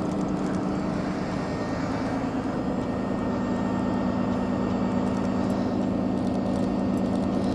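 Idling vehicle engine, a steady low hum, over continuous city street noise.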